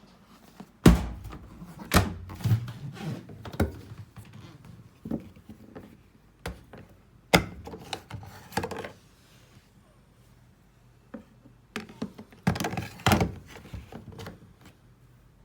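Irregular thunks, knocks and clatters of hard parts being handled on a Sharp ES-S7B washing machine, in a few scattered groups with short pauses between them.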